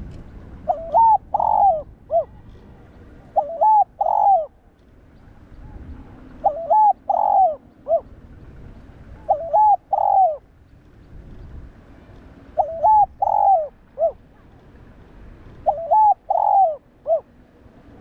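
Spotted dove cooing: six phrases about three seconds apart, each a short rising-and-falling coo followed by a longer falling coo, several ending with a brief extra note.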